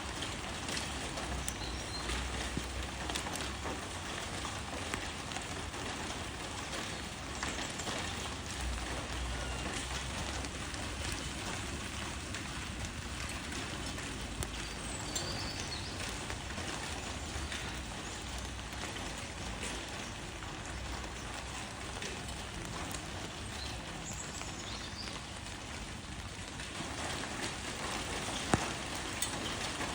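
Rain falling on leaves: a steady patter of drops with scattered ticks and a low rumble underneath. A single sharper tap sounds near the end.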